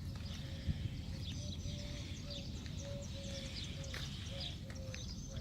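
Many small birds chirping and twittering all through, with a string of short, lower notes repeating alongside and a low rumble underneath.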